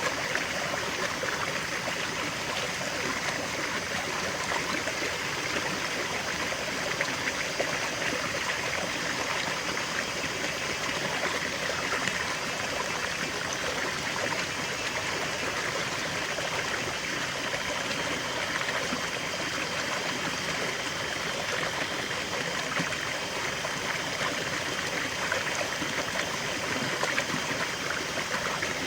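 River water flowing over stones, a steady rushing with fine babbling and trickling detail.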